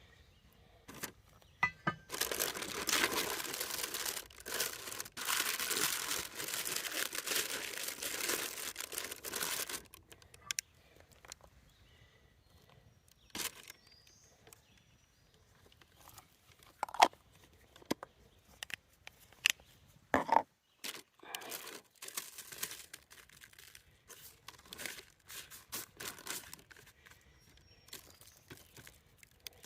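A bag of brown sugar crinkling and rustling as it is handled and emptied, a dense crackly noise lasting about eight seconds. After that come scattered small knocks and clicks.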